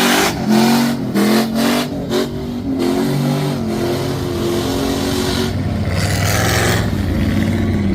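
Mud truck engine revving hard, its pitch rising and falling, with several quick surges in the first few seconds and a longer climb near the end.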